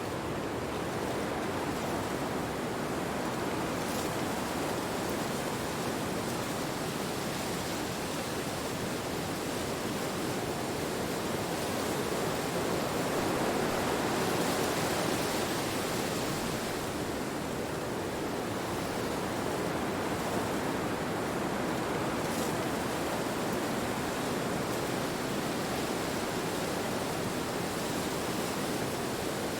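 Steady rushing wind, an even hiss that swells a little around the middle.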